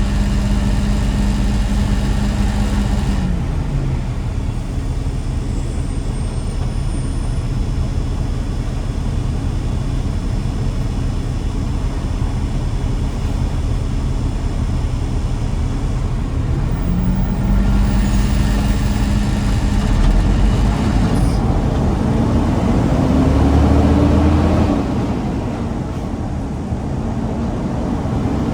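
Garbage truck's diesel engine on the road: the engine note drops away about four seconds in, then climbs again as it pulls away around the middle, rising once more before easing off near the end.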